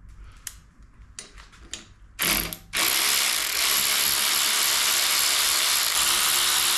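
A few light tool clicks, a short blip of a cordless power tool about two seconds in, then the tool runs steadily from about three seconds in, backing out a fastener on the mini bike's handlebar brake mount.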